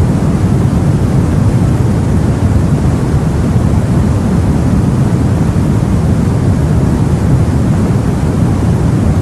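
Sea and wind heard from aboard a boat: a steady, low rumbling wash of water and wind with no separate events.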